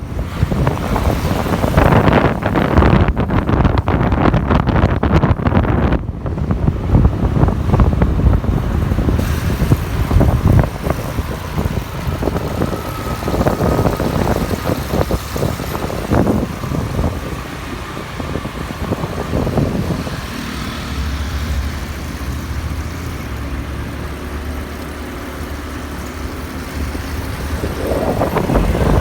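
Riding pillion on a motorbike taxi through city traffic: wind buffeting the microphone over engine and road noise. After about twenty seconds the wind noise eases and a steady low engine hum is left.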